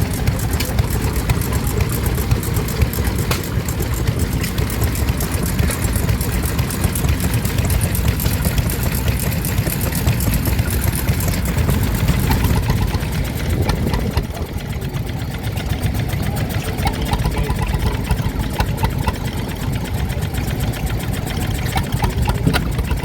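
Vintage stationary engines running at idle, a steady pulsing rumble with most of its weight low down.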